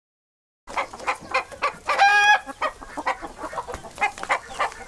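Domestic hen clucking in a quick run of short clucks, with one drawn-out, higher call about two seconds in.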